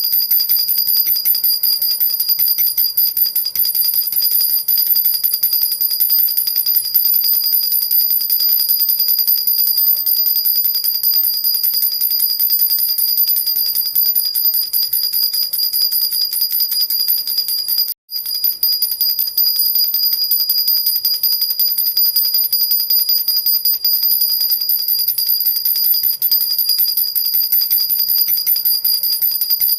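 Jhunjhuna baby rattle shaken continuously, its small bells jingling in a fast, even rattle with a steady high ringing over it. The sound cuts out for a split second about eighteen seconds in.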